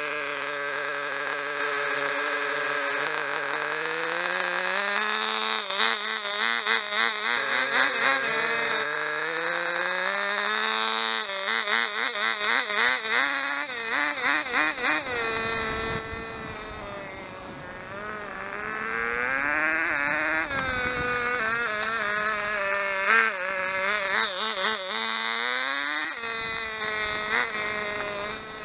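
Small glow-fuel model engine of a 1/16 radio-control car running with a high buzzy note. The pitch climbs a few seconds in, then wavers quickly up and down as the throttle is blipped. It eases off, swells again and is blipped again near the end.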